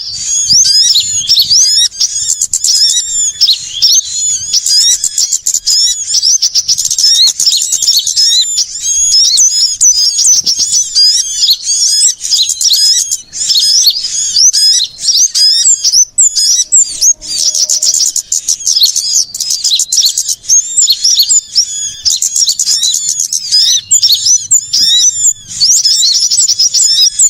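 Dense, continuous chorus of many small songbirds chirping and twittering rapidly, with quick high-pitched up-and-down notes overlapping without pause: a bird-luring (pikat) recording of small birds such as sunbirds, played to draw wild birds in.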